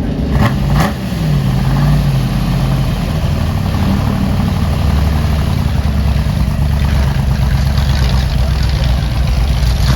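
Car engine idling with a steady, deep rumble; two sharp clicks come just after the start.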